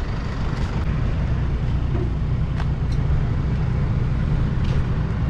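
Vehicle engine idling steadily with a low rumble, with a few faint light knocks about two and a half and three seconds in.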